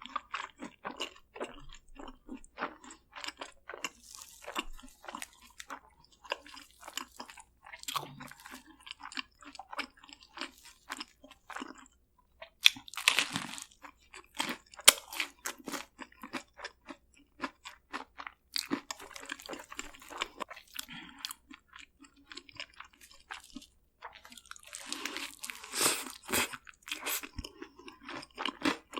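Close-miked chewing of crunchy seasoned fried food: many sharp crackling crunches with softer, wetter chewing between. The crunching comes in louder stretches about 13 seconds in, around 20 seconds and again around 26 seconds.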